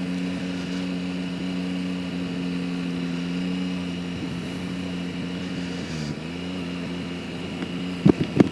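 Yamaha Tracer 9 GT's three-cylinder engine running steadily at low road speed. Its pitch dips briefly about six seconds in, then picks up again. A few sharp knocks come near the end.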